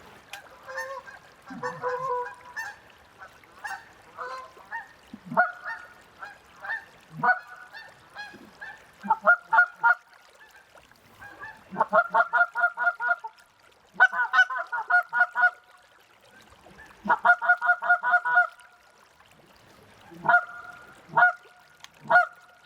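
Goose call blown by a hunter to lure circling geese: a string of honks and quick clucks, scattered at first, then fast rhythmic runs of loud, evenly spaced notes several times a second in the second half.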